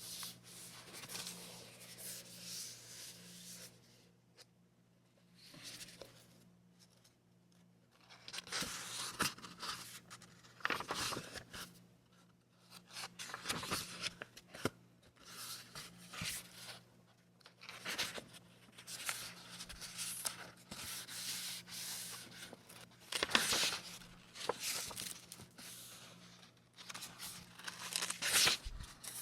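Paper being handled and torn, in irregular rustling bursts with a few sharp crackles, some bursts a second or two long.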